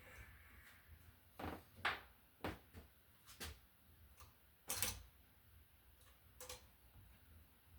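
Scattered small clicks and knocks of hand tools and stiff wires being handled while wiring a wall receptacle, about six in all, the loudest about five seconds in.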